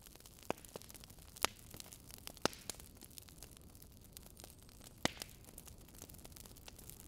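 Wood fire crackling in a fireplace: a handful of sharp pops and small ticks over a steady soft hiss.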